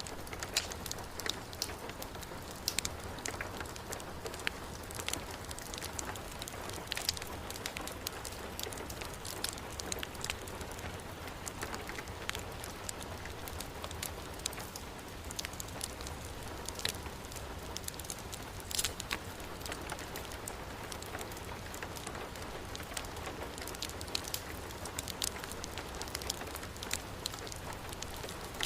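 Heavy rain falling steadily, mixed with a wood fire crackling, its pops heard as sharp irregular clicks.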